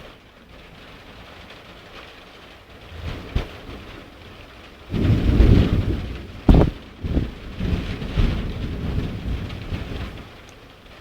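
Steady rain with a thunderclap about five seconds in: a loud low rumble with two sharp cracks, rolling on for several seconds before fading back to the rain.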